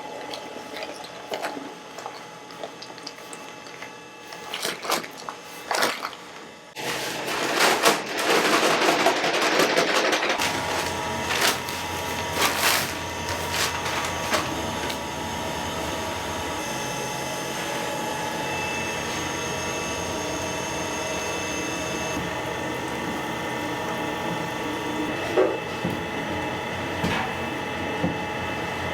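Knocks and clatter of work, then a machine starts about ten seconds in and runs on with a steady hum.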